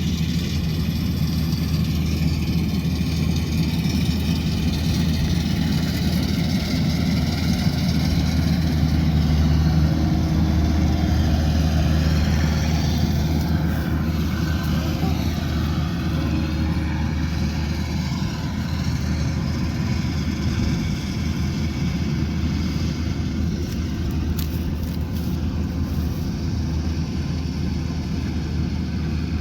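Rice combine harvester's diesel engine running steadily under load, a little louder about a third of the way in.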